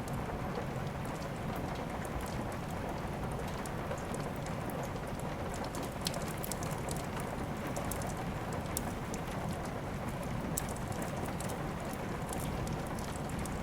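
Steady rain with a crackling wood fire in a fireplace, giving scattered sharp pops over the even hiss.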